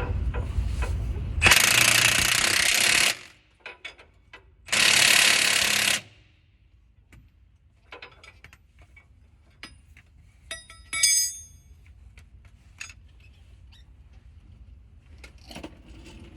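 Impact wrench running in two bursts of about a second and a half each, driving the new axle mounting bolts. Then scattered metallic clicks and a brief ringing clink of tools and hardware about eleven seconds in.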